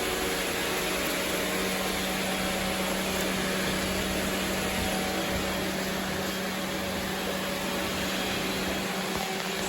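Robot vacuum cleaner running steadily while sweeping up confetti, an even suction noise over a constant low hum.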